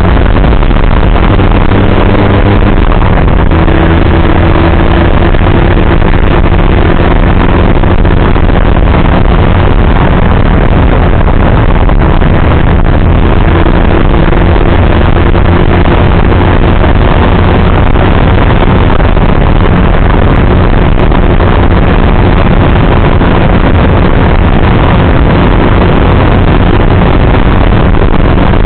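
Motorcycle engine running steadily while riding, under heavy wind and road noise; the engine note steps up a little a few seconds in.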